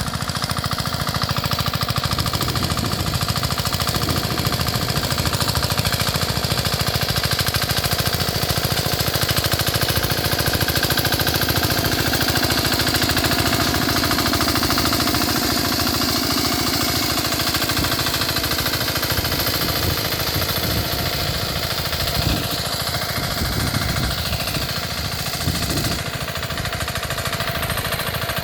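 Small 5 hp air-cooled engine of a walk-behind power tiller running steadily with a fast, even chugging.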